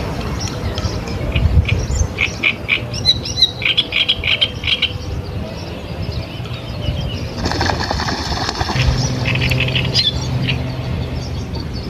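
Ducks calling: a rapid run of short calls that lasts about three seconds, a harsher burst around the middle, and another short run near the end.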